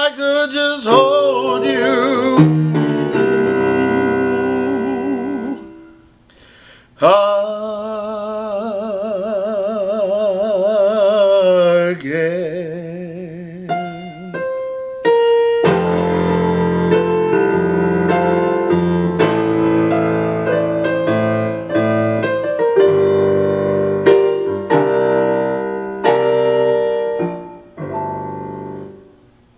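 A singer holds long sung notes with a wide vibrato over piano chords, the second held note beginning about seven seconds in. From about halfway on the piano plays alone in repeated chords.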